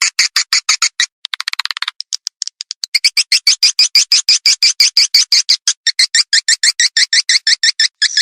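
Recorded swiftlet calls: a rapid train of sharp twittering chirps, about nine a second, with a brief lull about two seconds in before the chirps resume louder. This is a lure-call track played to draw swiftlets into a nesting house.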